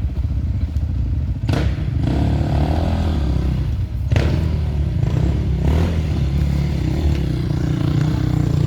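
Enduro motorcycle engine running close by, steady and low-pitched. Sharp knocks or clatters come about one and a half seconds in and again about four seconds in.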